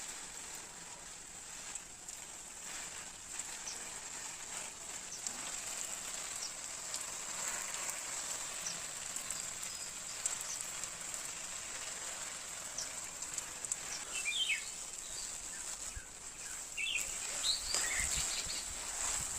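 Outdoor morning garden ambience: a steady high, thin hiss runs throughout, and birds give short chirps now and then, most of them in the last third.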